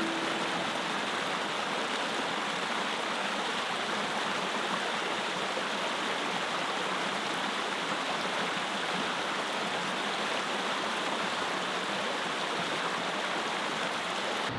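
Water of a small spawning-channel creek flowing steadily, an even rushing with no breaks.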